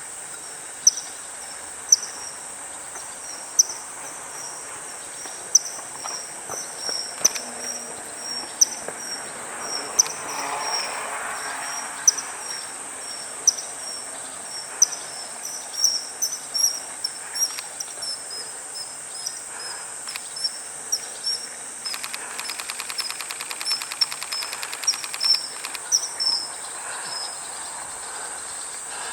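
Common kingfisher giving short, sharp high-pitched calls again and again, every second or two at first and closer together in the second half, over a steady high insect drone.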